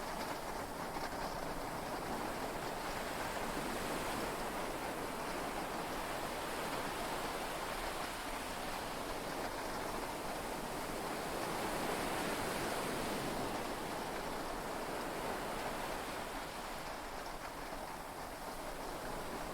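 Heavy rain and sea waves heard from inside a yacht cabin: a steady rushing wash that swells and eases gently, with no thunder clap.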